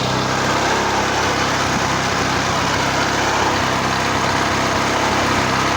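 Small lawnmower engine, refitted to drive a reel mower, running steadily at an even speed.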